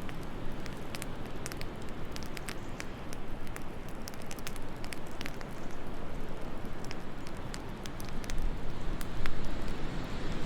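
Wood fire crackling with irregular sharp pops over a steady low rush of wind, which swells louder about nine seconds in.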